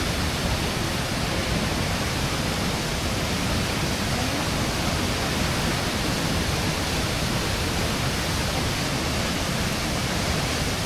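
Waterfall plunging into a pool close by: a steady, loud rush of falling water.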